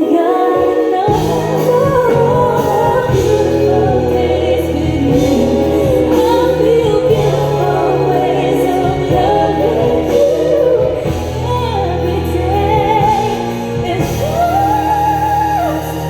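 Live R&B ballad: a female lead singer holding wordless, ornamented vocal runs over a band, with the bass and band coming in about a second in.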